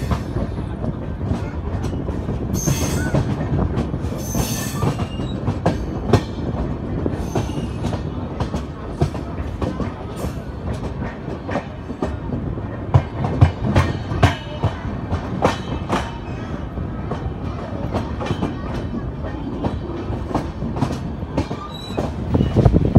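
Passenger train running over the points and rail joints into a station, heard from an open coach doorway: a steady wheel rumble with frequent clacks from the joints and crossings, and two brief high wheel squeals about three and four and a half seconds in.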